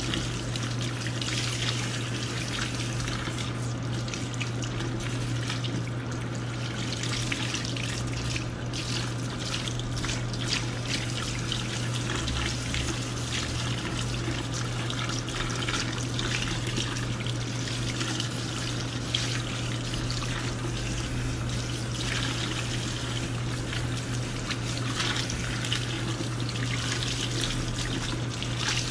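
Tap water running from a barbershop shampoo-sink faucet, splashing and trickling unevenly over the client's hair as it is rinsed. A steady low hum runs underneath.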